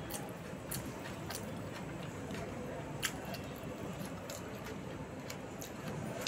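Close-miked eating sounds: puri and vegetable curry being chewed, with scattered wet mouth clicks and smacks, one louder click about three seconds in, over a steady background hiss.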